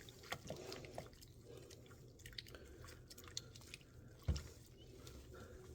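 Faint drips, small splashes and squishing as a doll is handled in soapy water, with light clicks throughout and one louder knock about four seconds in.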